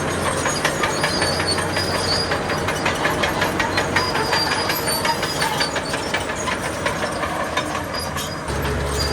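Crawler bulldozer working, its engine running under a rapid, even metallic clatter from the tracks; a steady low engine drone comes in again near the end.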